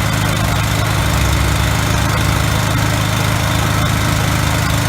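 5.5 kW triple-head floor grinder running with its diamond tooling down on the floor, together with the motors of a 3-stage dust extractor and the 10 kVA generator powering them: a loud, steady mechanical drone with a low hum.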